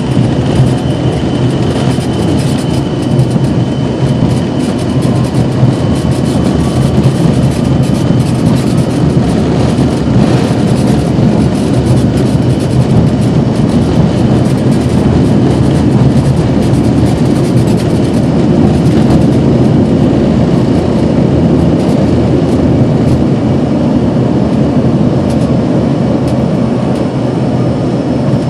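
Jet airliner engines and rushing air heard from inside the cabin during takeoff: a loud, steady noise with a low hum, and a faint rising whine about a quarter of the way in.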